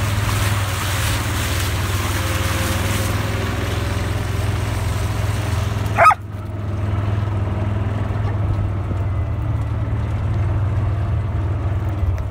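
Kawasaki Mule utility vehicle engine running steadily with a low hum. About six seconds in, one brief, sharp high-pitched sound stands out above it.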